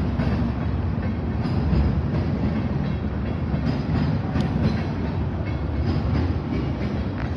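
Train passing at speed: a steady rumble of wheels on the rails, with scattered faint clicks over the track.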